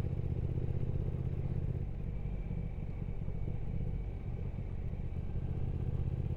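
Triumph Speed Twin 1200's parallel-twin engine running steadily under way, a low rumble that dips slightly in level in the middle.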